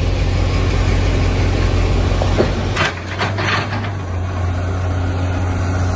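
Heavy diesel machinery engine running steadily under load, with a cluster of sharp cracks and knocks from wood or logs about two to three and a half seconds in.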